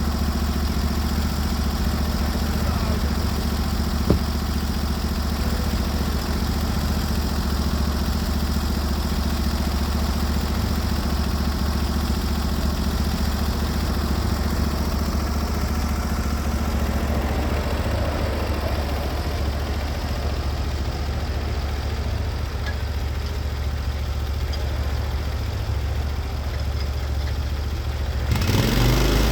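Norwood HD36v2 portable band sawmill's engine running steadily, then revving up just before the end.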